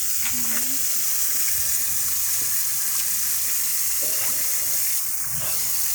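Water hissing steadily from an open water service pipe connection under repair.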